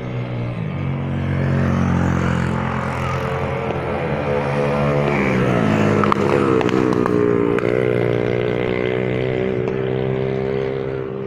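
A vehicle engine running, its pitch shifting and gliding down about five seconds in before settling steady. A few sharp cracks sound around six to seven seconds in.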